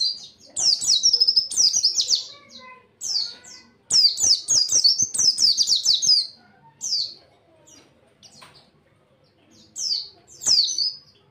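White-eye (pleci) singing in fast bursts of high, rapid twittering notes, phrase after phrase with short pauses, then a lull about seven seconds in before the song picks up again near the end.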